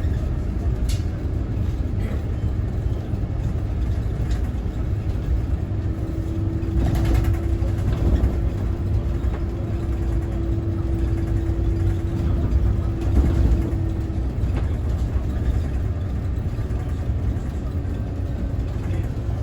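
Scania Citywide city bus running, with a steady low rumble of engine and drivetrain. A thin, even whine joins for several seconds in the middle, then fades.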